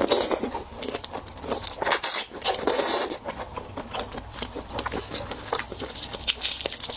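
Close-miked wet chewing of raw red shrimp, a dense run of small smacks and clicks from the mouth. Near the end, gloved hands pick up the next shrimp.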